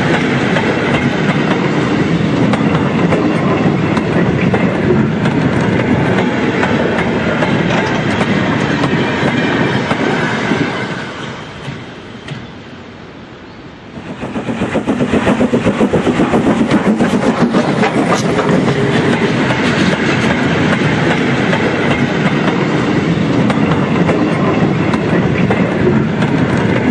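Model trains running on layout track: a steady rumble of wheels and motors with fast clickety-clack over the rail joints. It fades down about eleven seconds in, then comes back up about three seconds later with a quick run of clicks.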